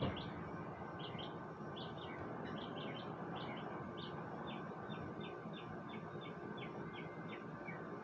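A small bird chirping repeatedly with short, high chirps, which settle about halfway through into an even series of about three a second.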